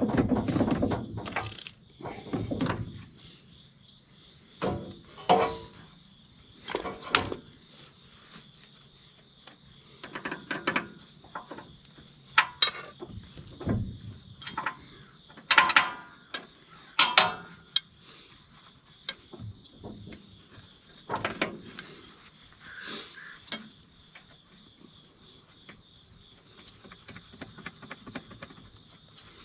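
Crickets chirping in a steady high-pitched drone, with scattered clinks and knocks of hand tools on the hay baler's metal parts during reassembly.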